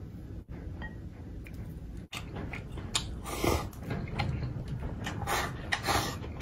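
Close-miked eating: a man chewing rice and braised meat while shoveling it from a bowl held to his mouth with chopsticks. The wet mouth sounds come in repeated loud bursts from about three seconds in.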